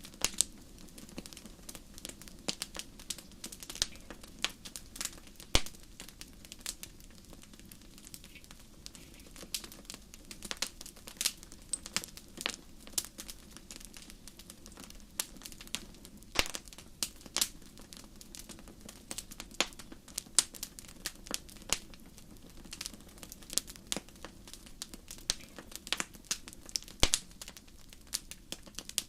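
Wood campfire crackling: irregular sharp pops and snaps, several a second and of varying loudness, over a steady low rush of the burning fire.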